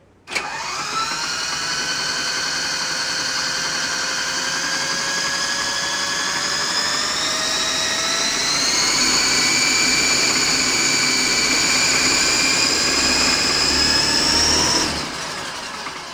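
Double Horse 9053 RC helicopter's electric motors and rotor spinning up with a high, many-toned whine that slowly rises in pitch, steps up to a higher speed about halfway through, then throttles off near the end and winds down.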